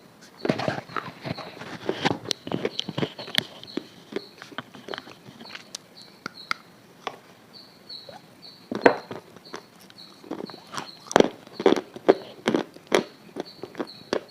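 Irregular crunching and crackling in two busy flurries, one near the start and a louder one in the second half. Under it runs a faint high chirp repeating about three times a second.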